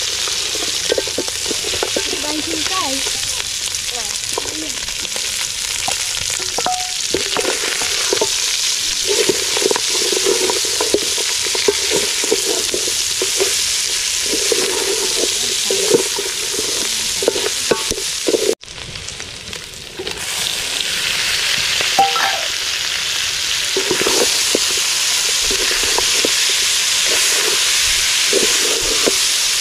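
Meat frying and sizzling steadily in an aluminium pot over a wood fire, while a wooden spatula stirs it with repeated scraping strokes against the pot. The sound breaks off for a moment about two-thirds through, then the sizzle and stirring carry on.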